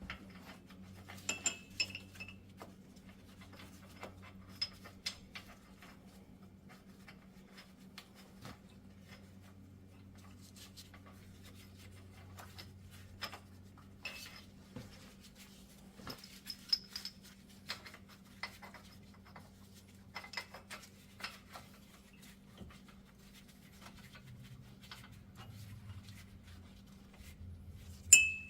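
Scattered metal clinks and taps of the hub bearing's mounting bolts and tools being handled as the bolts are started, with a sharper clink near the end. A steady low hum runs underneath.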